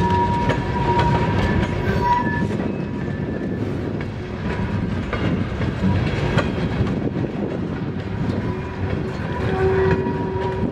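Freight train tank cars rolling past close by: a steady rumble of wheels on rail with irregular clickety-clack over the rail joints. A thin steady tone sounds on and off above the rumble.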